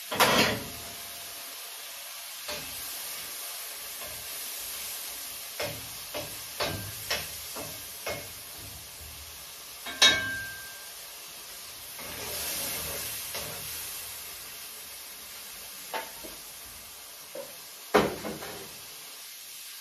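Shrimp frying in oil in a pot on a gas stove, a steady sizzle that swells briefly partway through. Metal pots, lids and a utensil clank about a dozen times, with loud knocks just after the start, about halfway (one followed by a short ringing tone) and near the end.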